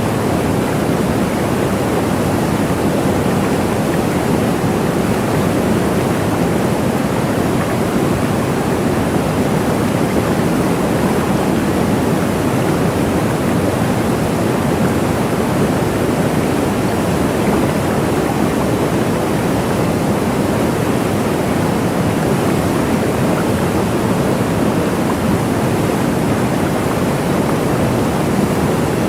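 Waterfall: a steady, unbroken rush of falling water, strongest in the low and middle range, with no changes or separate events.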